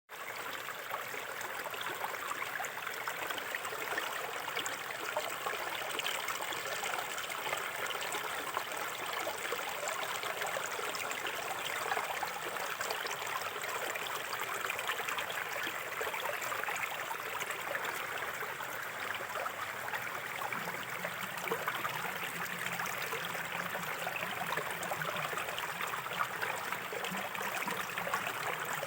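Small river flowing steadily over stones, a constant babbling rush with fine trickles and splashes. A low rumble joins the water about two-thirds of the way in.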